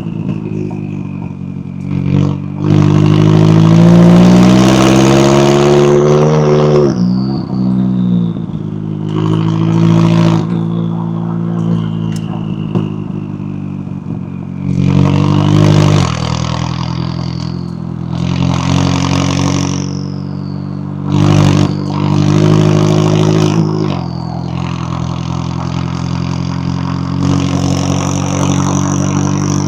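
McLaren 570S twin-turbo V8 accelerating hard several times, its pitch climbing through the revs with short breaks at the gear changes, then dropping back when the throttle lifts. A high whine rises and falls with the throttle over the engine note.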